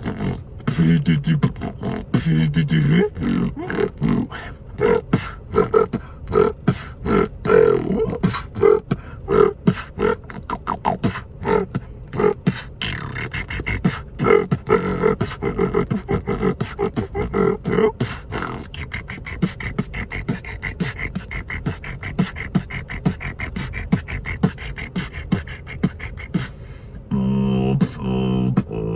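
Freestyle beatboxing: a fast stream of mouth-made kicks, snares and clicks with hummed bass tones woven under them, turning to a held, pitched hummed bass near the end.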